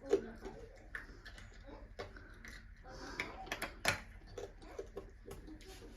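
Scattered sharp clicks and taps at an uneven pace, the loudest a little before four seconds in, over faint voices.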